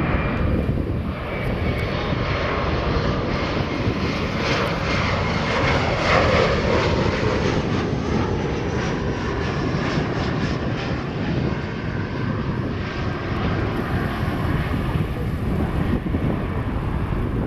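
Embraer 175 regional jet on final approach, its twin turbofan engines running with a faint whine over a steady rush of noise that is loudest about six seconds in.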